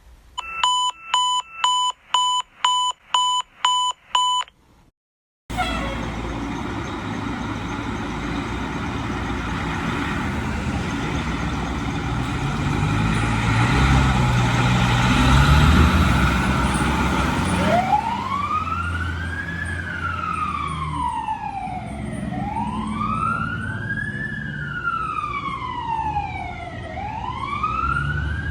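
Eight short electronic beeps, about two a second, then a fire engine's engine running with a steady rumble that builds for a while. From about two-thirds in, its electronic siren wails, rising and falling slowly about every four seconds.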